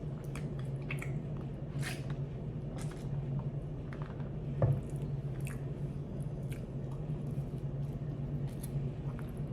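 Close-up chewing and wet mouth sounds of a person eating, with short clicks scattered through, over a steady low hum; one louder thump about four and a half seconds in.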